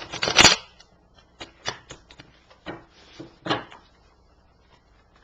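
A deck of tarot cards being shuffled by hand: a loud burst of rustling and flicking near the start, then scattered single card snaps and taps over the next few seconds.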